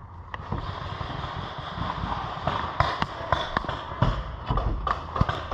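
Paintball markers firing in scattered, irregular pops, with balls smacking against cover, getting busier about halfway through; a low rumble of wind and handling noise on the camera mic underneath.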